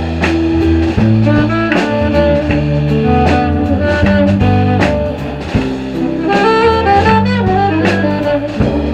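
Live band playing an instrumental break between sung verses: a stepping melodic lead line over bass and chords, with steady drum strikes.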